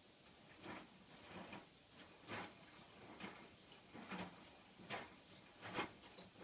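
Hotpoint washing machine early in its wash cycle: a faint series of short soft swishes, about one a second, as the drum turns the load.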